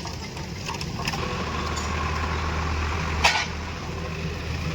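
New Holland 45 HP tractor's diesel engine running steadily, with a single short sharp knock about three seconds in.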